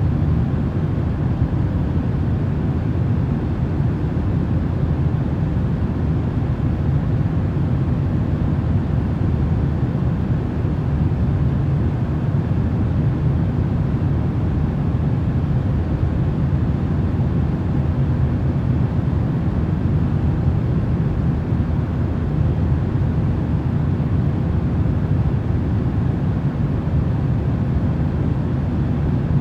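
Steady, deep noise of a sleep-noise track, heavy in the low end and unchanging, with no separate sounds in it.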